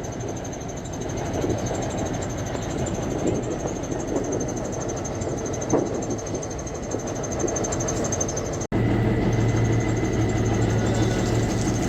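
A motor running steadily. About three-quarters of the way through it cuts off abruptly into a louder, steadier run with a strong low hum.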